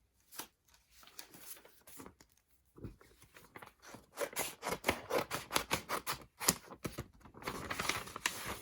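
Photocard packaging being handled and opened: scattered crackles and scrapes at first, then a dense run of quick crackling and rustling from about three seconds in.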